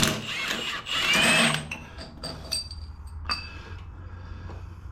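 A power tool whirs briefly about a second in, working the 15/16 socket on the snowblower engine's flywheel nut, followed by a few light metallic tool clinks.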